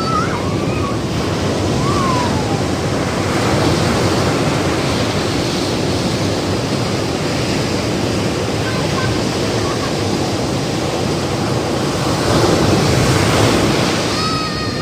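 Ocean surf breaking on a beach: a continuous wash of waves, swelling louder about four seconds in and again near the end.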